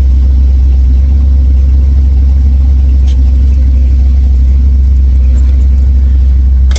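Car engine running steadily with a deep, low rumble.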